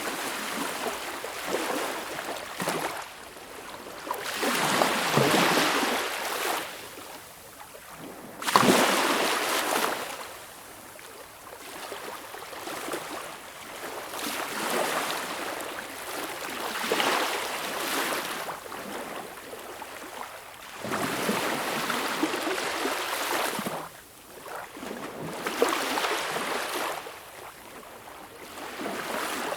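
Small ocean waves washing onto a beach and running back, a rushing wash that swells and fades every few seconds, one break about eight seconds in sharper and louder than the rest.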